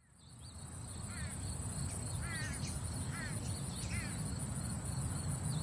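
A cockatiel chirping in about five short calls that rise and fall, over a low background rumble and a steady high-pitched insect-like buzz.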